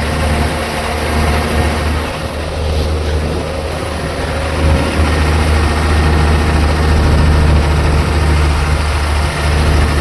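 Truck engine running steadily while the truck is driven, a continuous low drone.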